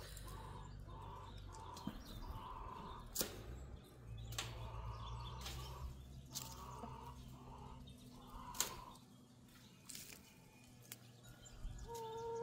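Birds calling softly in a chicken run: short notes repeated about twice a second, with a few sharp clicks between them and a low rumble that fades out about nine seconds in.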